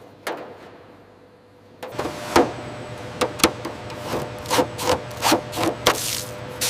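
Repeated scraping strokes of a hand abrasive tool worked back and forth over a surface, about two to three a second, starting about two seconds in over a steady low hum. A single stroke comes just before.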